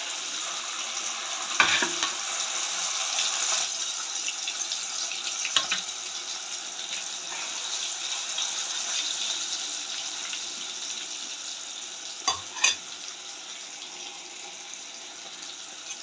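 Chicken frying in hot oil in a pan: a steady sizzle, with a few sharp knocks of a utensil against the pan, two of them close together near the end.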